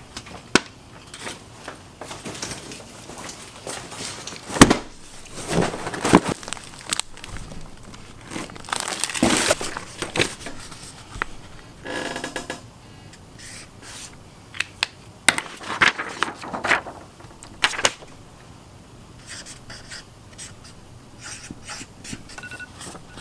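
Objects being handled in a small room: scattered sharp clicks and knocks mixed with scraping and rustling. There is a brief pitched sound about halfway through and two short high tones near the end.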